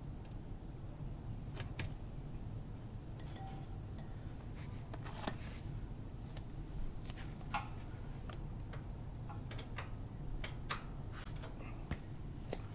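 Scattered light metallic clinks and taps of tools and brake parts being handled, a dozen or so at irregular intervals, some briefly ringing, over a steady low hum.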